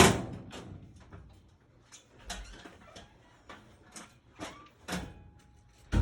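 Scattered light knocks and clicks of metal parts being handled during a furnace installation, several a second or so apart, with a louder knock at the end.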